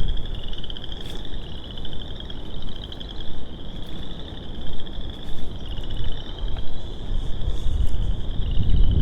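A chorus of frogs calling from a marsh: many overlapping high, pulsed trills, each about a second long, with one following another without a break. Low wind rumble on the microphone lies underneath.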